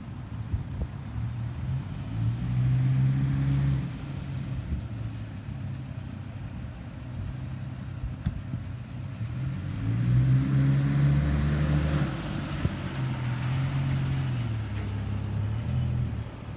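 Garbage truck's diesel engine running, revving up and holding a higher speed for a couple of seconds, then dropping back, and doing so again for longer about ten seconds in.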